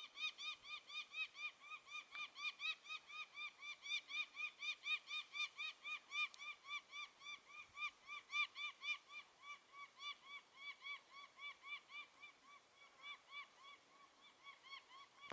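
A bird calling a long, rapid series of short nasal notes, about three or four a second. The notes space out and stop a couple of seconds before the end.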